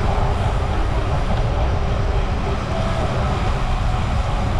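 Wind buffeting the microphone of a camera riding along on a moving bicycle: a steady low rumble with a hiss of air and road noise over it.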